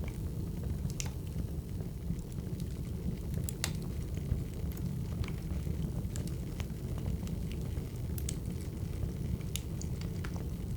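Burning firewood crackling: scattered sharp pops and snaps, irregularly spaced, over a steady low rumble.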